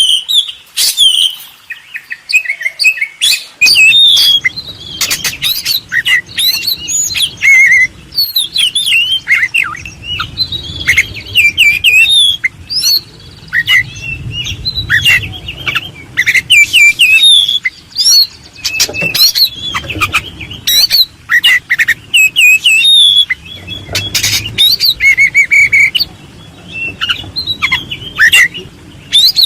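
Birds chirping and calling rapidly, short notes and quick up-and-down sweeps overlapping almost without pause. A low rumble sits underneath from about four seconds in.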